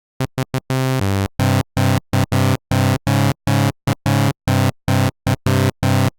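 Sylenth1 soft synth playing a buzzy sawtooth lead made of two stacked, in-phase sawtooth oscillators, struck in a fast run of short staccato notes with sharp starts and stops.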